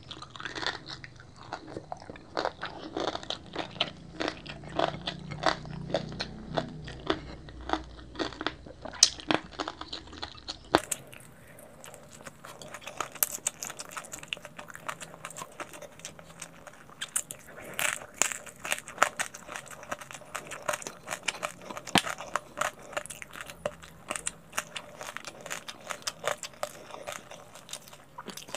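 Close-miked chewing and crunching of crispy deep-fried pork belly (lechon kawali) with rice: a dense, irregular run of crunches and wet mouth clicks.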